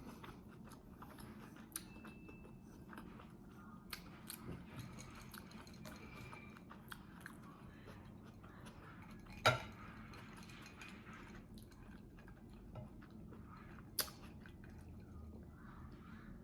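A person chewing food close to the microphone, with small mouth clicks throughout. Two sharper clicks come about halfway through and near the end.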